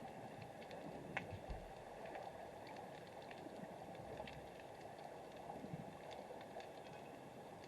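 Faint underwater ambience picked up by a submerged camera: a steady low hiss of the water with scattered sharp clicks and crackles throughout, one louder click about a second in.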